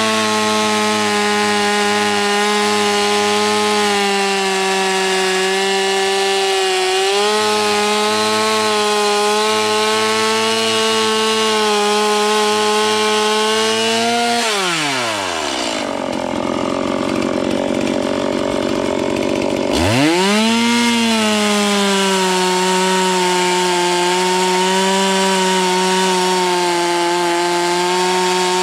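Two-stroke chainsaw cutting into a dead green ash trunk at full throttle. About halfway through, the throttle is let off and the engine falls to idle for about five seconds, then revs back up and keeps cutting.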